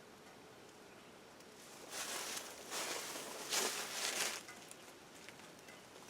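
Rustling and crunching through dry brush, a few footsteps starting about two seconds in and stopping after about four seconds.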